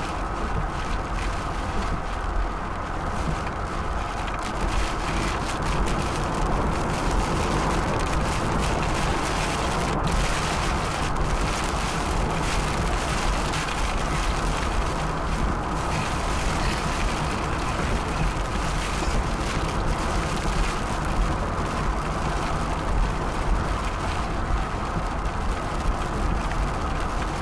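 Steady road and wind noise inside a moving vehicle, with a deep rumble from high winds buffeting the car.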